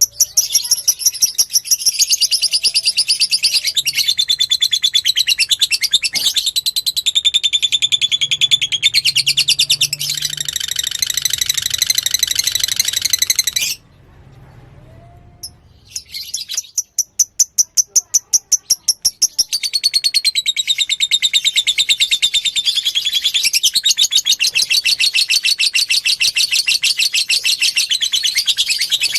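Fighter lovebird singing in long runs of rapid chattering trills, broken by a pause of about three seconds near the middle.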